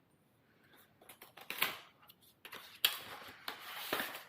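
Packaging being opened by hand: rustling and crinkling with scattered sharp clicks, starting about a second in.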